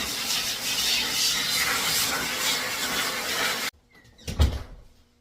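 Pet blow dryer blowing a steady hiss of air, which stops abruptly about three and a half seconds in; a single loud knock follows shortly after.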